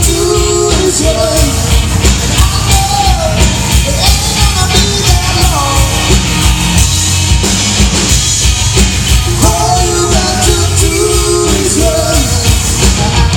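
Live rock band playing loudly, the drum kit keeping a steady driving beat under a wavering melody line.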